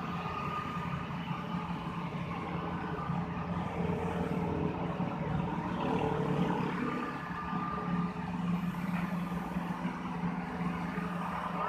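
Heavy diesel engine running steadily, with a constant low hum.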